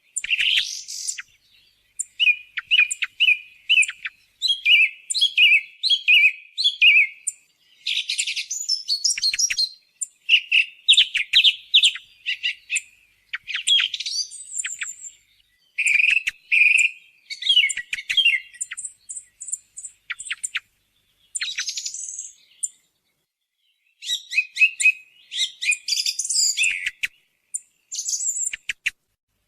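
Song thrush singing: loud, varied short phrases of whistles and sharp notes, many repeated several times in a row, with short pauses between phrases.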